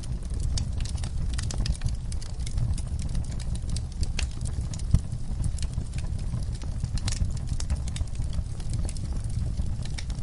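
Fire in a fireplace crackling, with irregular pops over a low steady rumble of burning, and one sharper pop about five seconds in.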